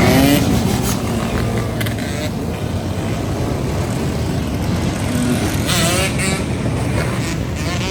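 A swarm of motorcycles riding past together, engines running with a dense low rumble; riders rev, rising in pitch at the start and again about six seconds in.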